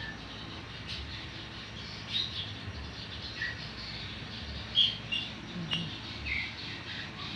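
Small birds chirping: scattered short, high chirps a second or so apart over a low steady background.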